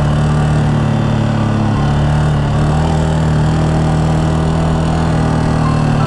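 Yamaha Serow 250's air-cooled single-cylinder four-stroke engine running steadily as the bike rides along, its note shifting once about two seconds in.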